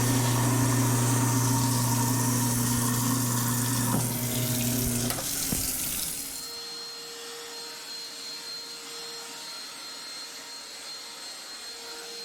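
Kitchen faucet running hard into the sink as it is filled to test the new drain, with a steady low hum alongside. The hum stops about five seconds in and the water shuts off about a second later, leaving a quieter steady background.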